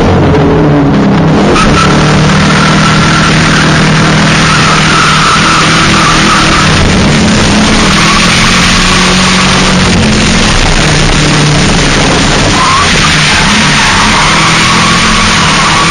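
2000 Ford Mustang drift car sliding at high revs, its tyres squealing and its engine held near one pitch with brief dips throughout.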